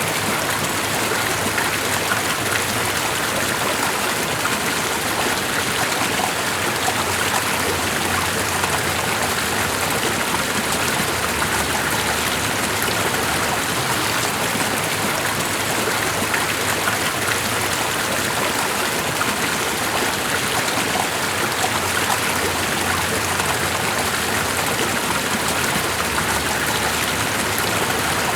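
Steady, even water noise, a continuous rush that does not change.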